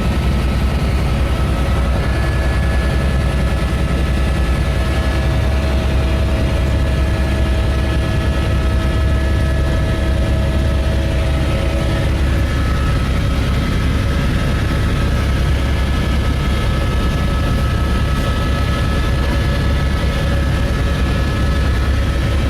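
Helicopter running steadily, a low rapid rotor thrum under several steady whining tones. One of the whines drops out about halfway through.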